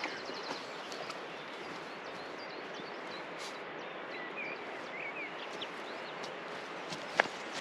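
Birds chirping a few times over a steady rushing outdoor background, with a single sharp click near the end.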